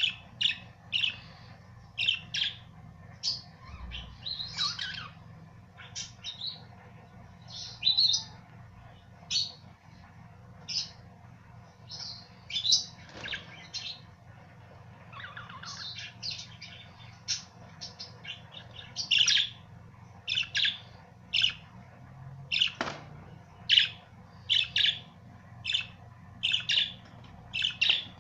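Budgerigars chirping: short, sharp, high chirps in quick, irregular succession, sometimes several a second.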